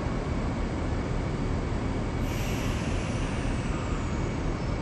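Steady low rumble of a train on the elevated tracks overhead. About halfway through, a high hiss starts and slowly falls in pitch.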